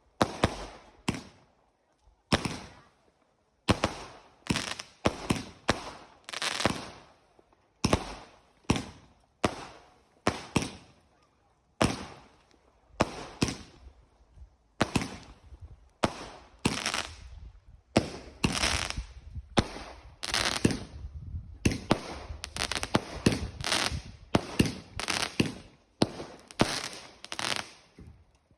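Fireworks going off: sharp bangs, each with a short echoing tail, about one a second at first, then a rapid, almost continuous volley through the second half.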